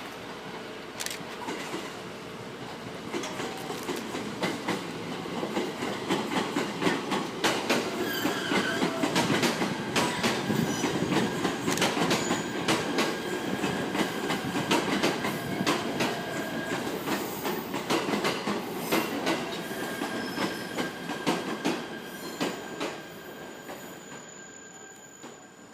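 JR East E129 series electric multiple unit, two sets coupled, rolling through the station. Its wheels click over rail joints and points, with thin squeals from the wheels. The sound builds for several seconds, holds, then fades away.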